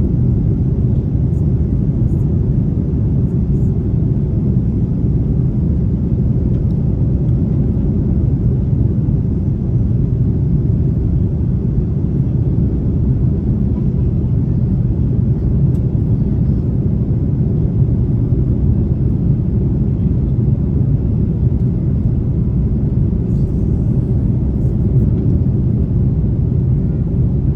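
Steady low rumble of an Airbus A330's engines and airflow heard from inside the passenger cabin, with no change in level throughout.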